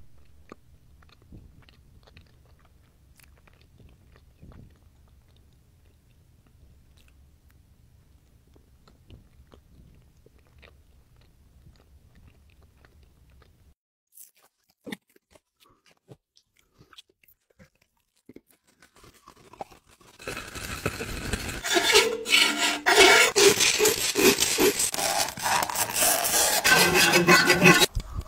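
Faint, close-miked ASMR nibbling and chewing of a chocolate treat, a few soft crunches and mouth clicks. About twenty seconds in, a much louder harsh scraping starts: a metal fork dragged across a metal pan lid right at a microphone, grating and squealing.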